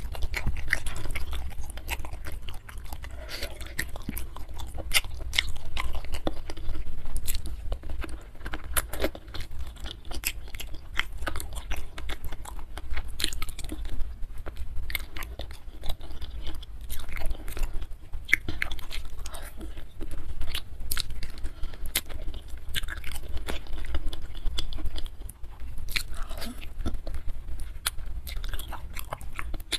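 Close-miked eating sounds: a person biting and chewing soft, sauced chicken feet, with wet smacks and many irregular mouth clicks.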